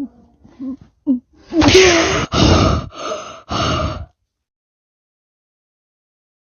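A person's voice: short vocal blips, then loud gasping or shouting in four sharply cut bursts, stopping dead about four seconds in.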